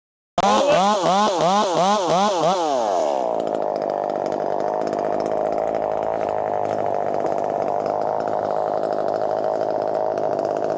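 Chainsaw cutting in after a brief silence, its pitch wavering up and down in quick surges. About three seconds in it drops to a steady idle.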